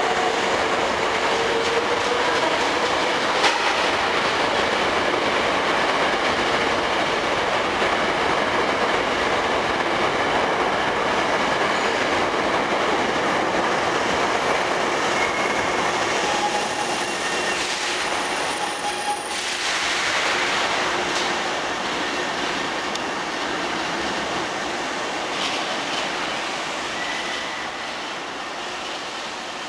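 Hankyu 6000 series eight-car electric train running in along the platform and slowing to a stop: steady wheel-and-rail rumble with clicking over rail joints and short high wheel squeals as it brakes. It grows quieter as it slows near the end.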